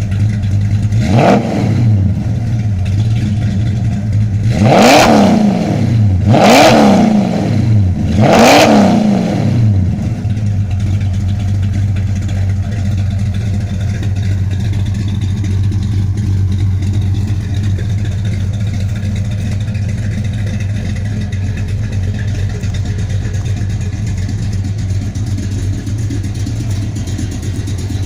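1968 Plymouth Road Runner's 440 cubic-inch (7.2 L) V8 idling, blipped once lightly about a second in and then revved three times in quick succession, each rev rising and falling back, before it settles into a steady idle.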